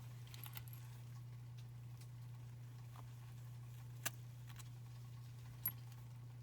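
A steady low hum with faint handling clicks, and two sharper clicks about four and five and a half seconds in.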